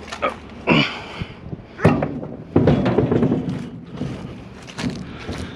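Several thumps and knocks of junk being handled and moved, the loudest about two seconds in, followed by about a second of scraping clatter.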